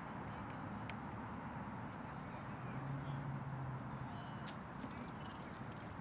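Outdoor background noise with a bird calling near the end, a quick run of about seven sharp chips within a second. There is a single click about a second in and a brief low hum around the middle.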